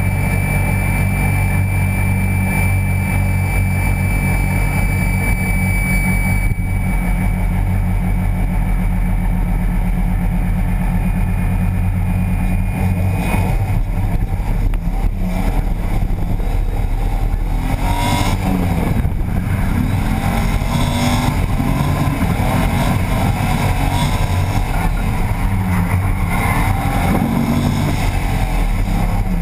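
BMW E30 drift car's engine, heard from the engine bay next to its open cone air filter. It idles steadily for the first several seconds, and from about halfway it revs up and down repeatedly as the car drives off and drifts.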